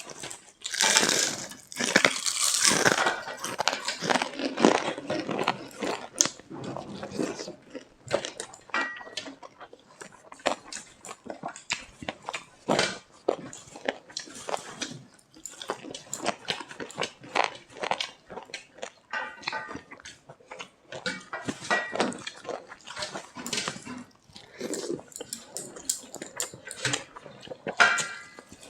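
Close-miked eating sounds: a person chewing mouthfuls of rice, dal and pakoras, with a quick, irregular run of wet smacks and clicks that is busiest in the first few seconds.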